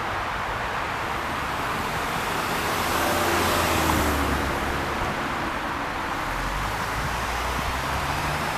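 Steady rushing background noise, with a vehicle passing by about three to four seconds in: the sound swells, then fades as its pitch drops slightly.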